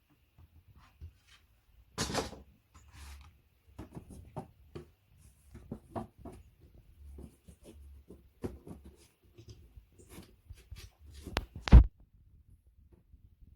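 Wooden flat-pack furniture parts and fittings being handled during assembly: irregular clicks, taps and rattles, with one loud, heavy knock near the end.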